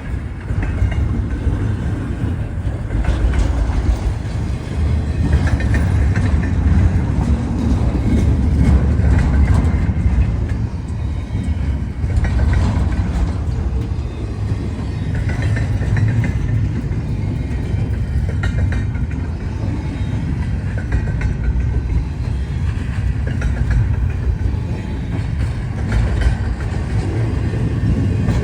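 Freight train rolling past: a steady, loud low rumble of railcars with clickety-clack over the rail joints and faint wheel squeal.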